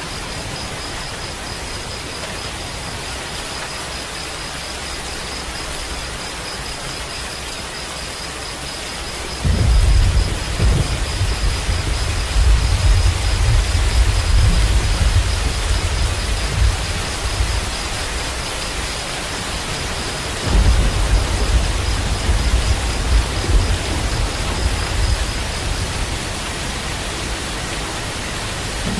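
Steady heavy rainfall with rolling thunder: a deep rumble sets in suddenly about nine seconds in and rolls on for several seconds, and a second rumble follows about twenty seconds in. A thin, steady high whine sits faintly above the rain until near the end.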